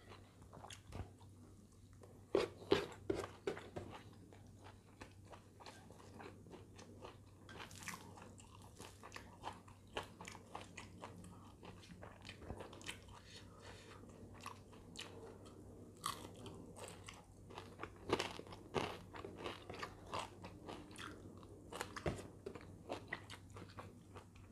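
A person eating by hand: faint chewing and crunching of rice with salted fish, sambal and stir-fried greens, with scattered soft clicks of fingers picking food. A few louder bites come through, about two to three seconds in and again later.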